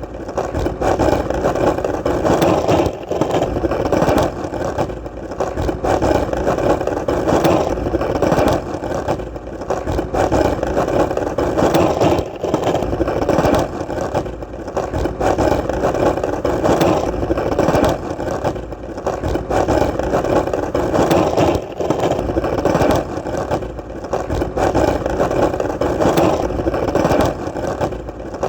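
Skateboard wheels rolling over hard ground: a continuous rumbling hum that dips briefly every two to three seconds, with light clicks along the way.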